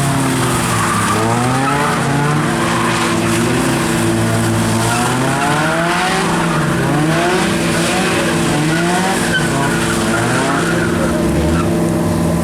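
A car engine revving hard over and over, with tyres spinning and skidding on wet pavement during donuts. The pitch climbs in repeated sweeps, about one a second, over a steady tyre hiss.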